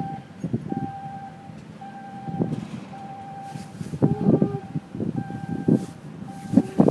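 Electronic warning beeper sounding steadily at one pitch, a half-second beep about once a second, over intermittent low rumbling.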